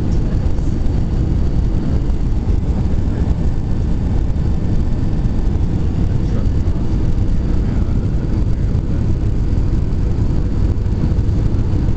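Steady low rumble inside a jet airliner's cabin: engine and airflow noise during the approach.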